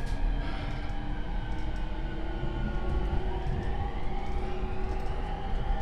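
JR E231 series electric train running, heard from inside a motor car: the Hitachi IGBT VVVF inverter and traction motors whine over the wheel and rail noise. A higher whine dips until about halfway and then climbs, while a lower whine rises slowly.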